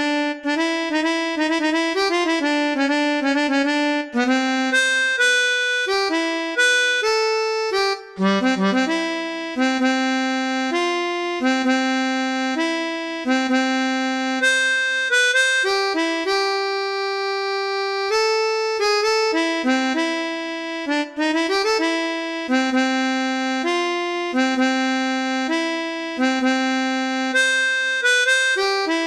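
Chromatic harmonica playing a melody in F, with reedy notes held about half a second to a second each, several sounding together at times.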